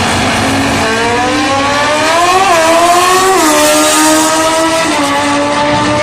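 Drag-racing motorcycle engine accelerating hard, its pitch climbing and dropping back at each of three gear shifts, then running on at a steadier pitch.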